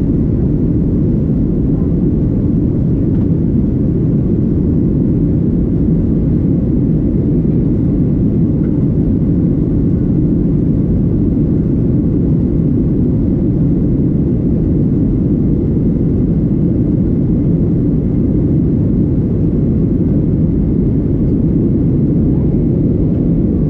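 Steady rumble of a Boeing 737-800's engines and airflow heard inside the passenger cabin, a dense even roar sitting low with a faint high steady tone above it and no changes in level.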